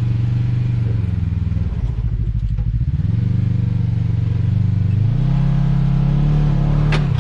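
Side-by-side UTV engine working under load as it crawls over rocks, the revs dropping briefly and then stepping up twice as the throttle is fed in. A sharp knock near the end.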